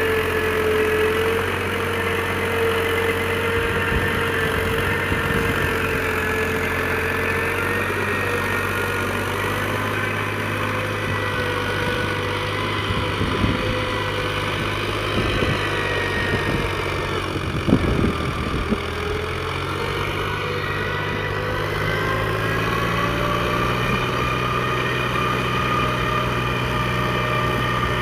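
Mahindra tractor's diesel engine running steadily, with a few clunks past the middle and a slight change in its note near the end.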